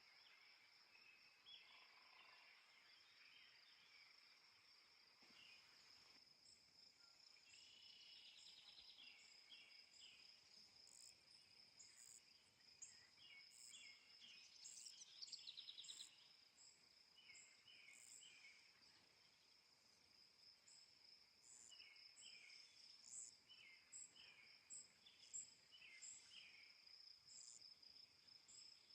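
Faint natural ambience: a steady high-pitched insect trill, with short bird chirps and calls repeating throughout and a quick trilled call about halfway through.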